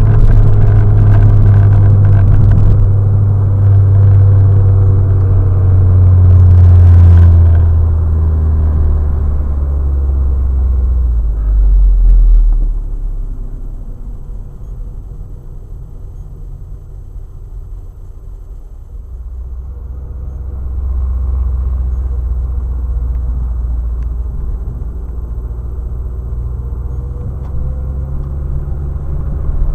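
A 2008 Chevrolet Cobalt's engine and road noise heard from inside the cabin while driving. The engine note falls over the first dozen seconds, goes quieter for several seconds, then picks up again.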